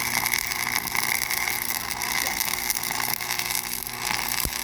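Machinery running steadily: a dense, fast clatter over a low hum.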